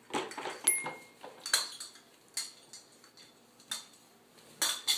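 Metallic clinks and clatters from puppies playing with objects in their pen: about six sharp knocks at uneven intervals, one ringing briefly just under a second in.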